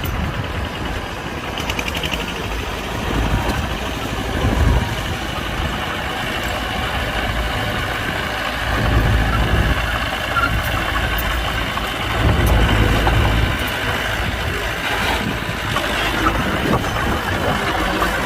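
Heavy diesel engine running with a steady low rumble that swells louder several times, as earthmoving machinery works.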